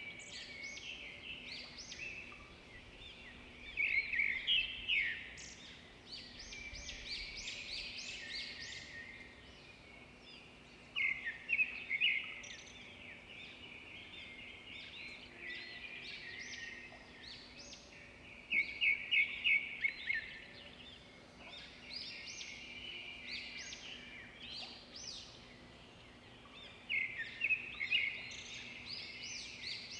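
Swiftlets chirping: high, rapid twittering calls that come in louder bursts every seven or eight seconds, with a faint steady hum underneath.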